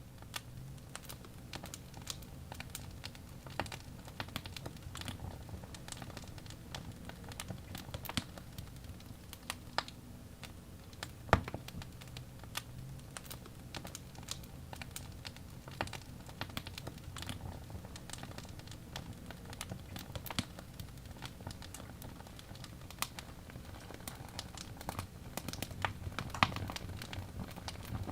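Birch logs burning in a fireplace, crackling with irregular sharp pops over a low steady rumble of the flames; one louder pop about eleven seconds in.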